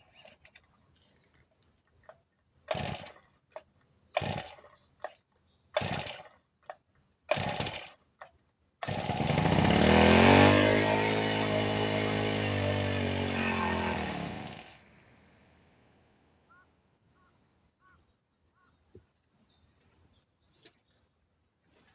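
Honda GX25 small four-stroke brush-cutter engine pulled over four times on its recoil starter, then firing and running for about six seconds, its pitch rising then falling away until it stops.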